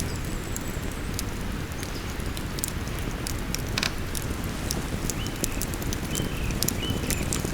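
Campfire crackling with frequent sharp pops over the steady rush of a river, with a few short high chirps in the second half.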